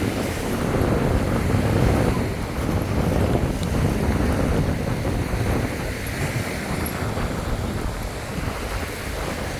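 Sea waves breaking and washing up a sandy beach, with wind buffeting the microphone; the rush swells loudest about two seconds in.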